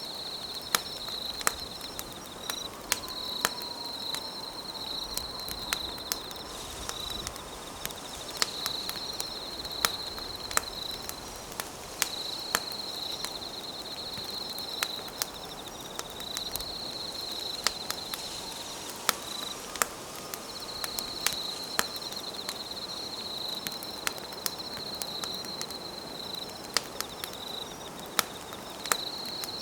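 Campfire crackling, with frequent irregular sharp pops over a low hiss, while an insect trills at a high pitch in stretches of a few seconds broken by short pauses.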